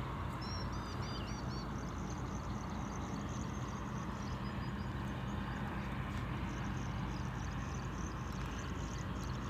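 A steady low drone of a running engine over outdoor background noise, with a small bird giving a quick run of about six chirps about half a second in.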